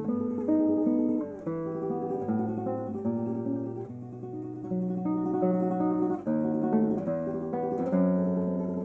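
Martinez MC-58 nylon-string classical guitar, with rosewood back and sides, played solo: a continuous run of plucked notes with a melody over bass notes.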